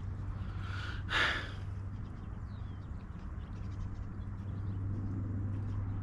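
Birds calling: faint short chirps throughout and one louder, harsh call about a second in, over a steady low rumble.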